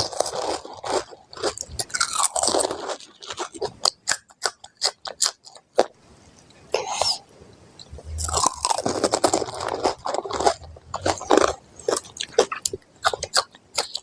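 Pani puri being eaten close to the microphone: crisp puri shells cracking between the teeth, then wet chewing, in repeated bouts of sharp crunches.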